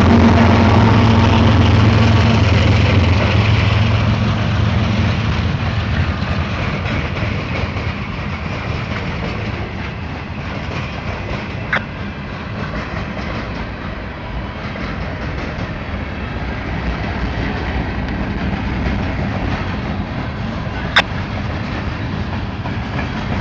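A mixed freight train passing: the diesel locomotive's engine drone fades out over the first few seconds, leaving the steady rumble of the freight cars rolling along the rails, with two brief sharp metallic sounds, about halfway and near the end.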